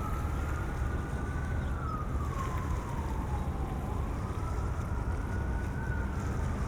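Emergency vehicle siren wailing, its pitch rising and falling slowly about once every four seconds, over a steady low rumble of wind.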